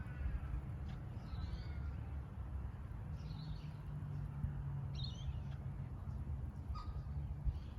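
Red-capped parrots giving short, harsh calls, about four of them at intervals of roughly two seconds, with a few fainter chirps, over a steady low rumble.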